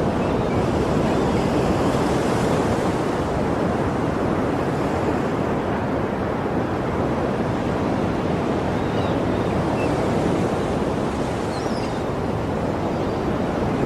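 Sea waves washing on a shore in a steady, continuous surge with no distinct breaks between waves.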